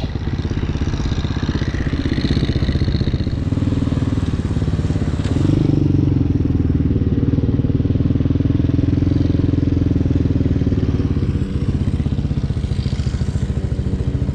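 Hawk 250 motorcycle engine running steadily under way. It picks up a little about five seconds in and eases off again around eleven seconds.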